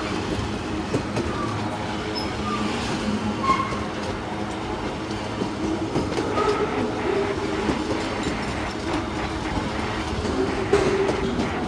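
Freight train wagons rolling past, wheels clattering over the rails with brief high wheel squeals now and then.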